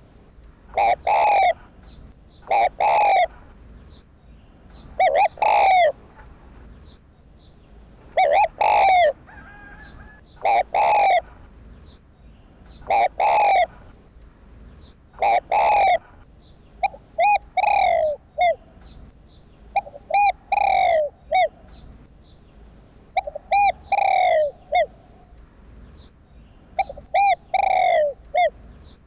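Spotted dove cooing its song over and over. Each phrase is a few short coos followed by a longer one, and a new phrase starts every two seconds or so.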